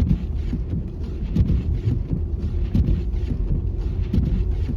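Car moving slowly along a snow-covered road, heard from inside the cabin: a steady low rumble of engine and tyres, with irregular soft thumps every half second to a second.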